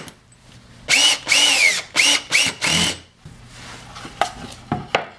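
Power drill driving screws in about five quick trigger bursts, its motor whine sagging in pitch as each screw bites and rising again as it eases off. Quieter handling and a couple of light clicks follow.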